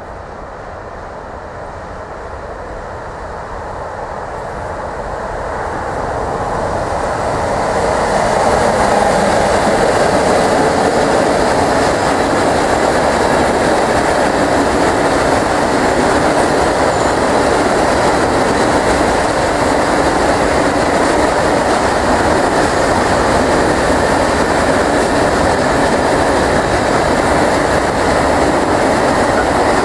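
Freight train of covered hopper wagons passing close by. The noise grows over the first eight seconds or so as the locomotive approaches, then settles into a steady rumble and clatter of wagon wheels on the rails as the wagons roll past.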